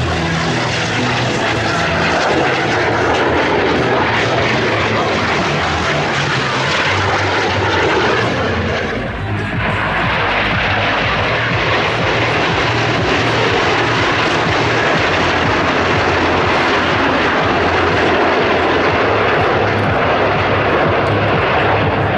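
Aircraft engine noise from a plane in flight, a loud steady rush that briefly drops about nine seconds in and then builds again.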